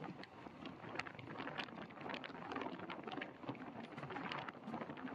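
Passenger train running, heard from beside an open coach doorway: a steady rumble and wind rush with rapid, irregular clicks and rattles from the wheels on the track.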